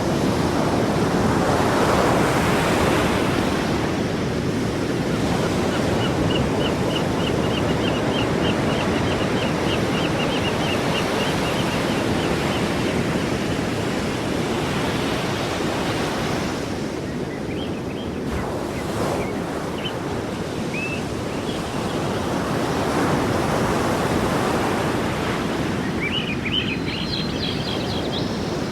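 Sea waves breaking and washing on the shore in a steady surge that swells and eases. A rapid run of faint high chirps, about three a second, comes partway through, with a few more short high calls near the end.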